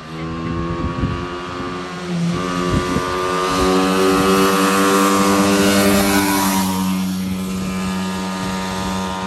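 125cc ATV engine running at steady throttle as it is ridden past: the note grows louder towards the middle, then fades as it moves away.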